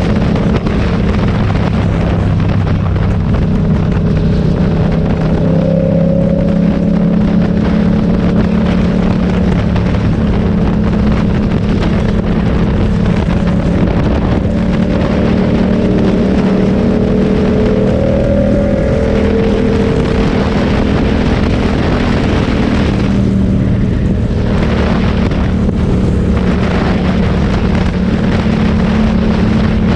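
Motorcycle engine running steadily while riding, its pitch drifting slightly with speed, with wind noise on the microphone.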